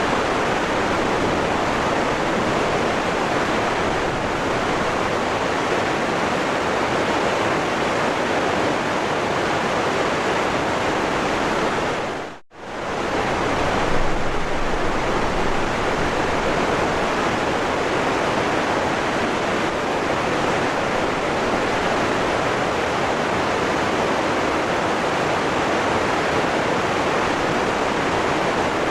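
Waterfall rushing in a steady, dense roar of water. About twelve seconds in it dips away to almost nothing for a moment and fades straight back up, like a splice between recordings.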